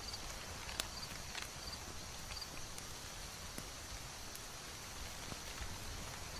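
Layered autumn ambience: a steady soft hiss with scattered sharp crackling pops, and a faint high chirp recurring about once a second.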